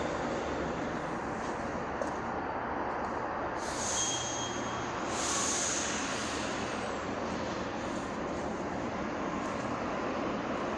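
Steady motorcycle riding noise, the engine and rushing wind blending into an even roar. About four seconds in, a brief high hiss with a thin whistle rises over it for roughly two seconds.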